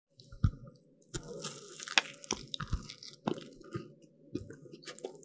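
Close-miked eating of crisp baked pastry: sharp crunching bites and crackly chewing, densest a second or two in, over a steady low hum.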